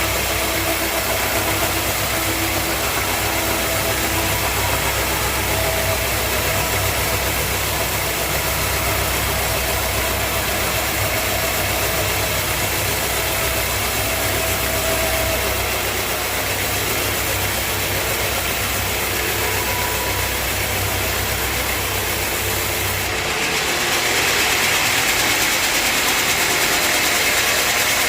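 Sawmill machinery running with a steady engine hum. About 23 seconds in the low hum drops away and a louder, brighter noise takes over.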